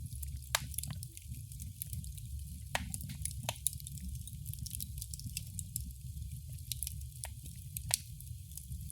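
Wood fire burning in a fireplace: a steady low rumble of flame with frequent sharp crackles and pops, a few louder snaps scattered through.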